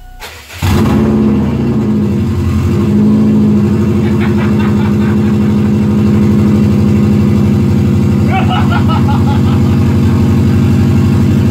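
A 2002 Subaru WRX's flat-four boxer engine cold-started with no exhaust fitted. It catches within the first second, comes in loud and sudden, dips slightly in pitch over the next few seconds, then settles into a steady idle.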